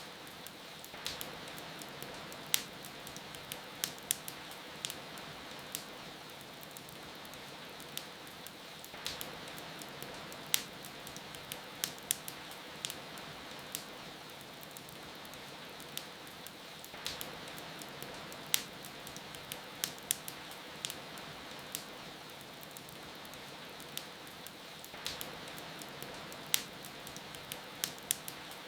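Wood fire crackling with sharp pops and snaps over a steady hiss of rain. The crackles come in clusters that start roughly every eight seconds.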